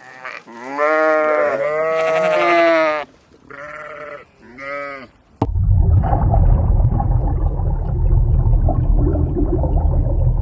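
A bleating animal, a sheep or goat kind of call: one long wavering bleat of about three seconds, then two short bleats. About five seconds in it cuts suddenly to a steady low rumbling noise.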